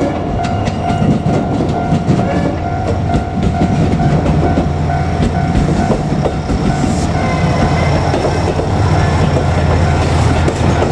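JR Kyushu KiHa 200 diesel railcar passing a level crossing, its wheels clacking over the rail joints and its diesel engine droning, louder from about four seconds in. The crossing's warning signal rings steadily the whole time.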